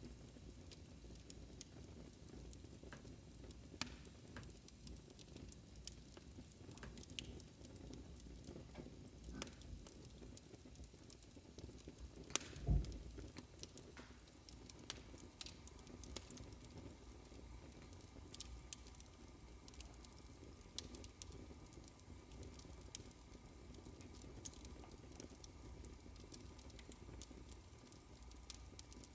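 Wood fire crackling in a fireplace: a low steady rustle with scattered sharp pops, and one dull low thud about halfway through.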